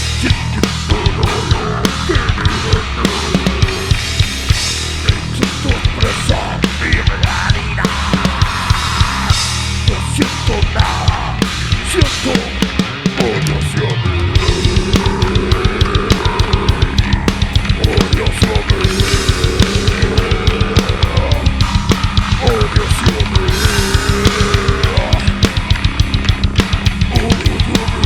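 Live death-metal band playing an instrumental passage: heavy distorted guitars over very fast, dense bass-drum and snare hits. The low end drops out briefly about halfway through, then the full band comes back in.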